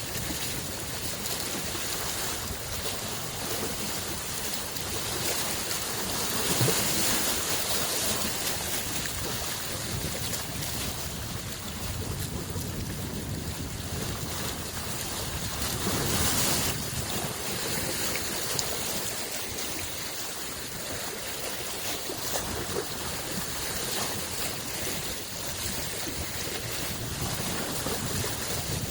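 Small freshwater lake waves washing in a steady rush, with a louder wash about six seconds in and another about sixteen seconds in.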